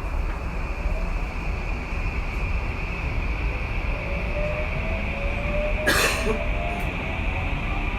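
Tokyu 2020 series electric train running, heard from inside the car: a steady rumble of wheels on rail, with a faint motor whine rising in pitch as it gathers speed. One sharp knock about six seconds in.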